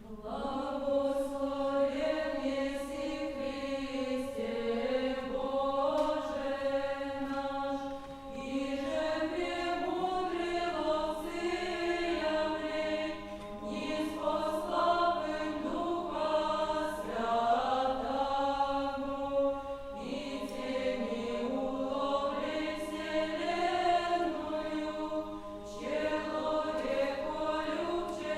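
A vocal ensemble sings an Old Russian chant, several voices together. It starts at once and moves in long phrases with short breaks about every five to seven seconds.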